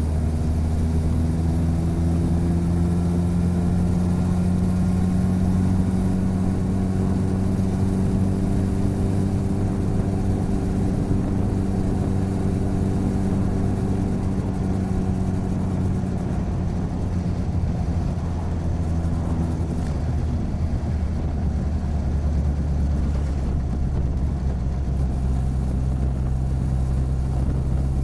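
Motorcycle engine and exhaust running steadily under way, picked up close to the bike. The engine note holds a fairly even pitch, then about two-thirds of the way through settles to a lower steady pitch.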